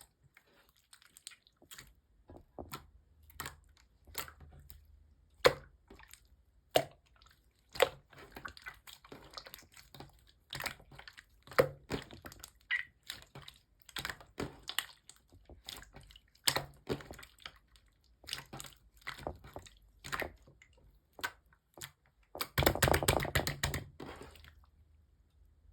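Slime being poked, pressed and stretched by hand, giving sharp sticky clicks and small air-bubble pops, with a denser, louder crackling stretch of about two seconds near the end.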